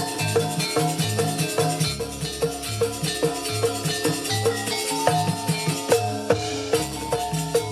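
Live jaranan campursari music: Javanese gamelan-style ensemble with hand drums and struck metal pitched percussion playing a steady, fast, repeating rhythm.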